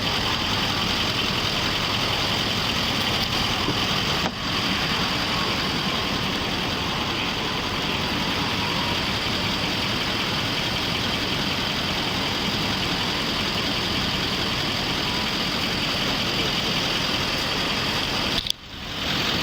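Steady motor-vehicle noise, an even rumble and hiss with no distinct events, which briefly drops away about four seconds in and again near the end.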